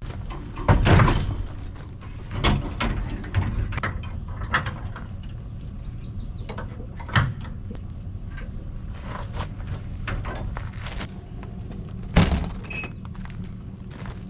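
Several sharp mechanical clunks and knocks, the loudest about a second in and again near the end, over a steady low rumble.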